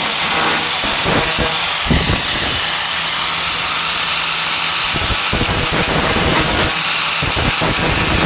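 4.5-inch angle grinder running against the truck bed's sheet steel: a steady, loud grinding hiss over the motor's hum, easing off briefly twice.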